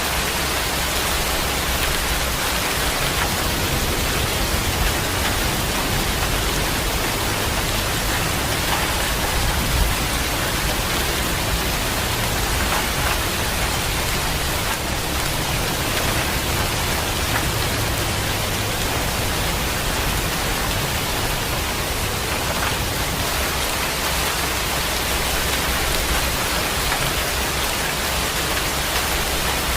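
Steady rain falling, a constant even hiss of drops with no distinct strikes.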